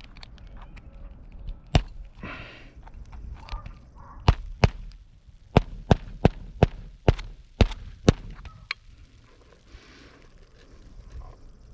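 A run of about a dozen sharp knocks at an uneven pace, two or three a second, with short scraping sounds between: work on an asphalt shingle roof.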